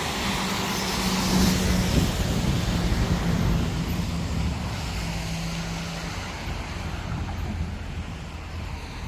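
Road traffic passing on a wet road: engine hum and tyre hiss, loudest about a second in and slowly easing off.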